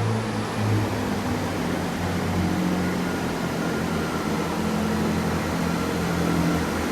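Diesel train idling at a station platform: a steady low engine hum with no change in pitch.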